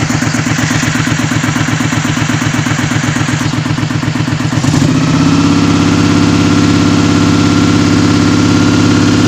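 Honda VFR400's V4 engine running on freshly repaired carburettors. About five seconds in, the revs rise slightly and the note becomes louder and steadier.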